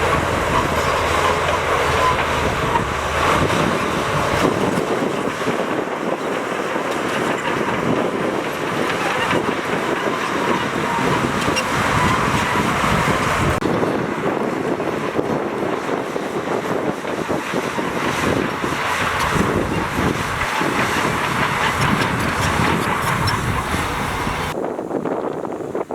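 Heavy diesel earthmoving machinery running steadily, a bulldozer or dump truck at work. The sound changes abruptly about halfway through and again near the end.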